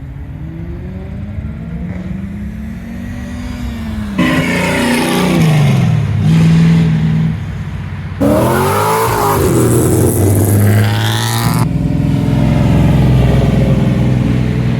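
Car engines revving and accelerating, their pitch rising and falling, in short clips that change abruptly about four, eight and eleven and a half seconds in.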